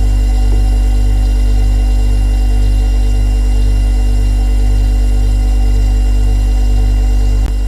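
Refrigerator compressor running with a steady deep hum and several fainter steady higher tones above it. A brief click sounds near the end.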